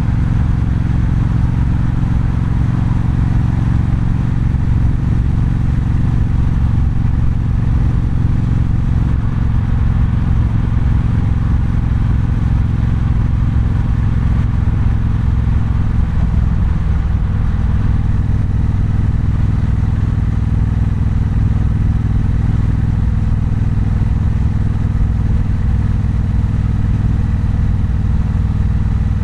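Triumph Bonneville Bobber's 1200 cc parallel-twin engine running at steady low revs, with a brief dip in pitch about halfway through.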